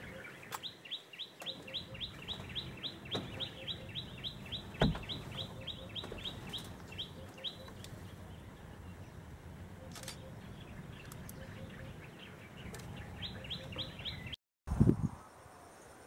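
Bird calls: a fast run of short, high chipping notes, about four a second, that stops around seven seconds in and starts again briefly near the end, with soft low notes repeating in pairs underneath. A single knock about five seconds in is the loudest moment.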